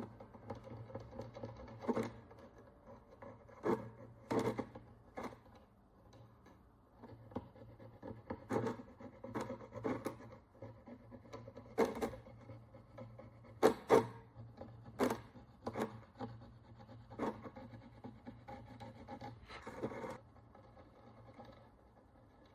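A tool scraping and picking at the crust on a Roman bronze follis, giving irregular short scrapes and clicks over a low steady hum.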